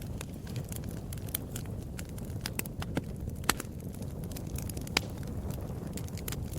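Wood fire burning, crackling with irregular sharp pops over a low steady rumble of flames; two pops stand out, about halfway through and about five seconds in.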